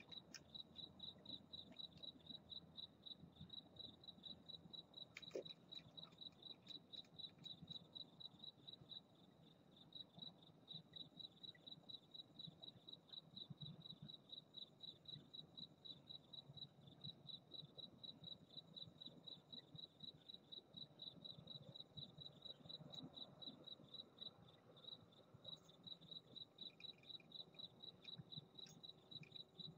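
A cricket chirping faintly and steadily, about two to three short high chirps a second, with a brief pause about nine seconds in.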